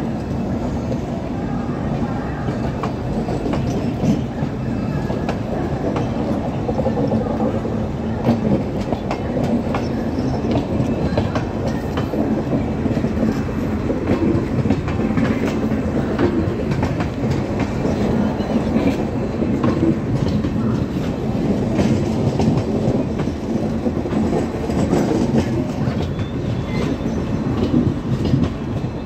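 Passenger coaches of the Visakhapatnam–Mumbai LTT Express rolling past, their wheels clattering over the rail joints with a steady rumble and many small knocks throughout.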